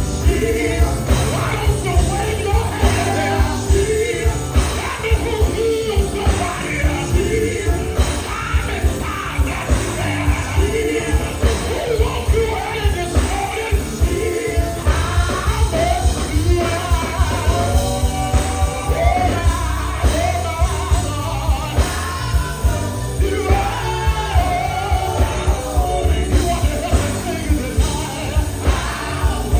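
Live gospel band playing an up-tempo song with a steady drum beat, with singing over it.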